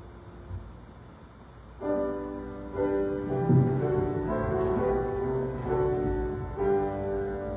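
Piano music in a slow, chordal style: soft at first, then fuller sustained chords from about two seconds in.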